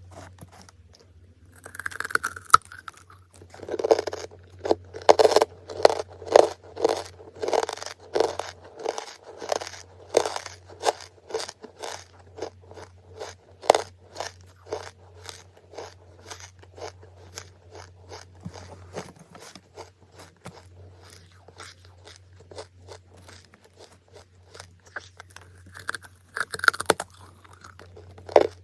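Close-miked biting and chewing of charcoal, a run of sharp, dry crunches. The heaviest bites come in the first third; after that lighter chewing crunches follow at about two to three a second, over a faint low hum.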